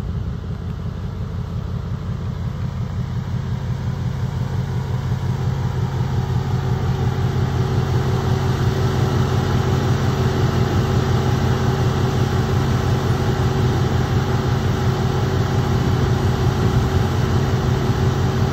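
A 2024 Ford Mustang GT's 5.0-litre V8 idling steadily. It grows a little louder over the first several seconds, then holds.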